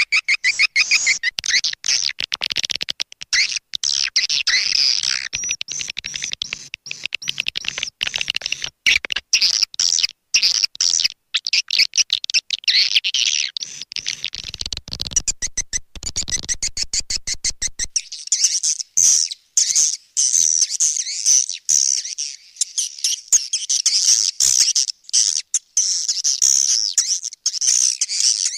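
Recorded swiftlet calls: dense, high twittering chirps, the lure sound played to draw swiftlets into a nesting house. The chirping is broken by frequent short gaps, with a run of rapid clicks around the middle.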